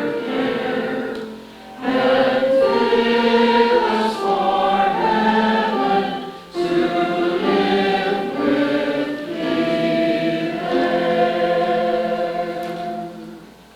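A choir singing a Christmas carol in phrases, with two short breaths between them, the last phrase dying away near the end.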